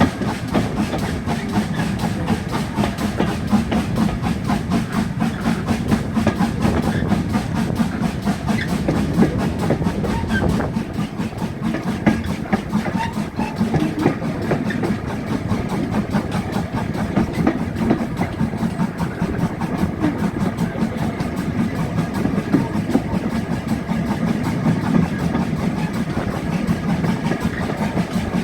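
Model train running along a layout's track: a steady motor hum with rapid, dense clicking of wheels on the rails.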